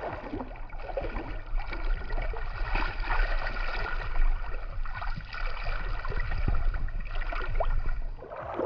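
River water splashing and sloshing in many small irregular splashes, over a steady low rumble.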